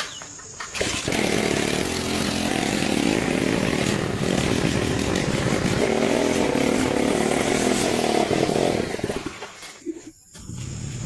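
A small motor running loudly and steadily, starting about a second in and cutting off near the end.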